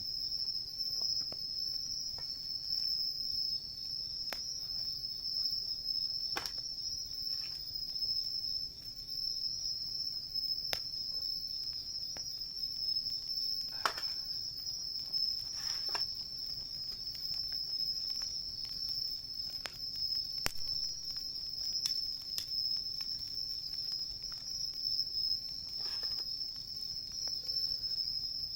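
Insects chirping in a steady, shrill chorus, with occasional sharp pops and crackles from a wood campfire.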